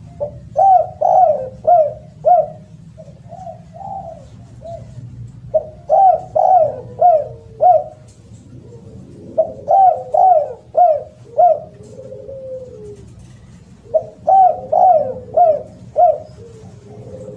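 Spotted dove cooing loudly: four phrases, about one every four seconds, each a quick run of several coos with a lower drawn-out coo trailing after, over a steady low hum.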